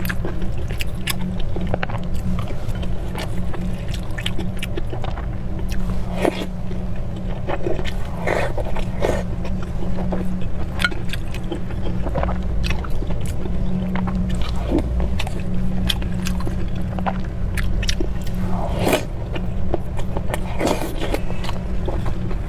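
Close-miked eating sounds: a person biting and chewing food, with many short irregular mouth clicks and smacks, over a steady low rumble.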